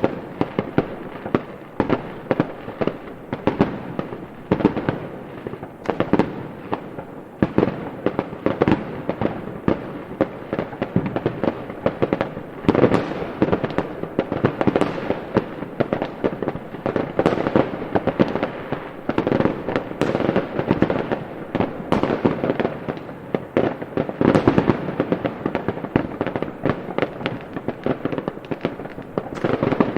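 Fireworks going off in a dense, continuous barrage: many sharp bangs and crackles a second over a constant rumble, with no let-up.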